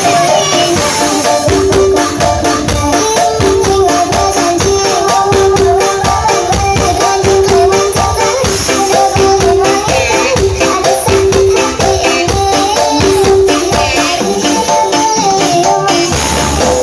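Loud music with a busy, fast percussion beat and a repeating melody, played through a large Blizzard Audio sound system under test.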